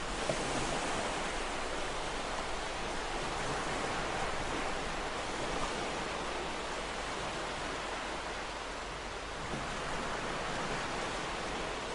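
Ocean waves washing on a shore, a steady hiss of surf with gentle swells in loudness.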